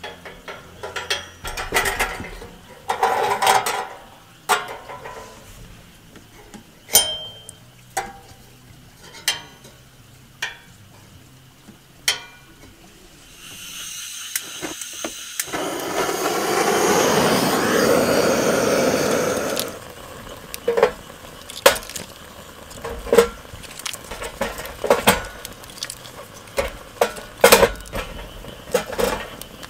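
Metal cookware and utensils clinking and knocking, many separate strikes, as food is handled over a wood-fire stove. About fourteen seconds in, a loud rushing hiss builds and runs for about six seconds before cutting off.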